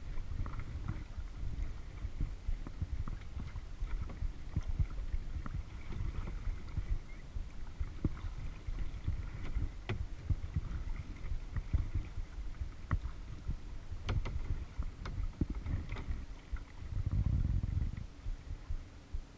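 Kayak paddling on a lake, recorded on a GoPro: a steady low rumble of water and wind on the microphone, with many small clicks and knocks from the paddle and hull, and a louder swell of rumble about 17 seconds in.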